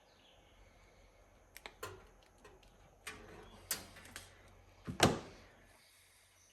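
Hand tools being handled on a workbench: a run of sharp clicks and clunks, the loudest a clunk about five seconds in.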